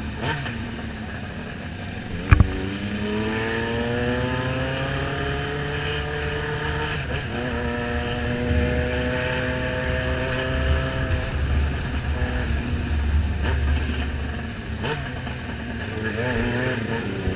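Motorcycle engine under way: its pitch climbs as it accelerates a couple of seconds in, then holds fairly steady before easing off, over a steady rush of wind noise. A single sharp knock comes just before the climb.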